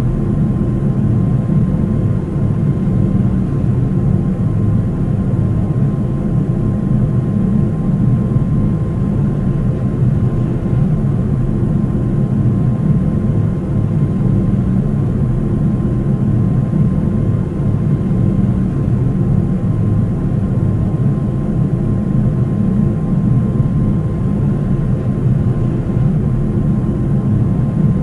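Steady engine and airflow noise inside the cabin of a Boeing 737-800 with CFM56-7B turbofans, a deep even rumble with a thin steady whine running through it.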